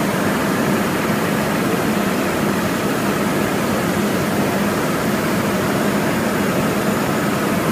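Helicopter's engine and rotor running steadily in flight, heard from inside the cabin as a loud, even drone.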